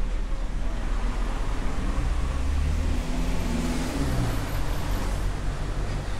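A car driving past on the street, its engine and tyres loudest about three to four seconds in, then fading.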